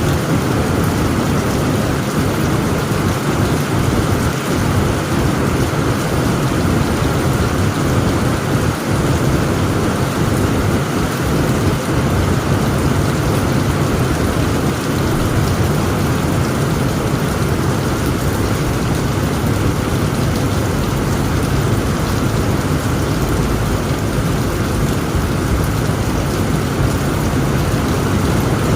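Heavy rain falling steadily on a tent roof, with a low, continuous rumble of thunder underneath and no sharp claps.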